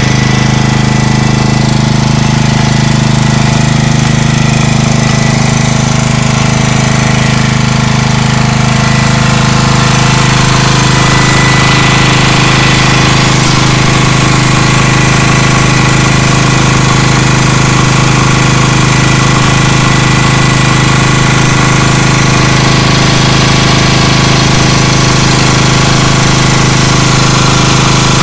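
Markon petrol generator powered by an 11 HP Briggs & Stratton engine, running steadily at a constant speed, becoming slightly louder about ten seconds in.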